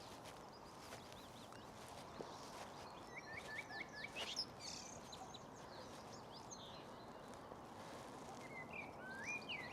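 A small songbird singing, faint over quiet outdoor background noise: a quick run of short chirps about three seconds in and another phrase of rising and falling notes near the end.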